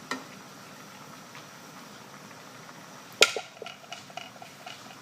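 A utensil knocking against a cooking pot: one sharp knock about three seconds in with a short ring, followed by a few lighter taps.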